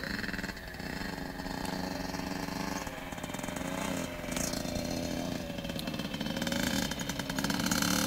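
Motocross bike's engine running, its pitch wavering a little with the throttle and the sound growing louder toward the end.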